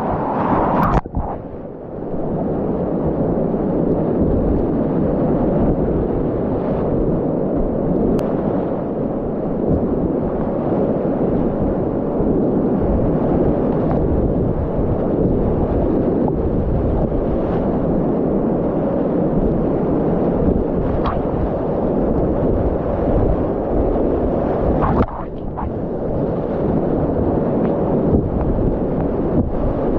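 Continuous loud rush of Class 4 whitewater rapids, with wind buffeting the microphone. It dips briefly about a second in and again a few seconds before the end.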